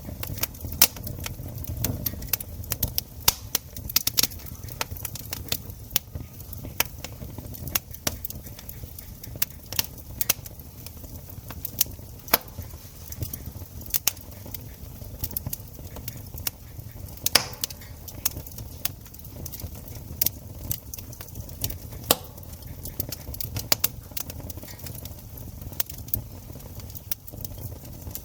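Wood campfire crackling: frequent, irregular sharp pops and snaps over a low, steady background noise.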